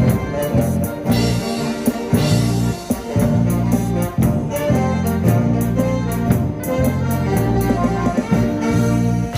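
Amateur ensemble playing an instrumental piece led by brass and saxophones over a steady bass and drum beat.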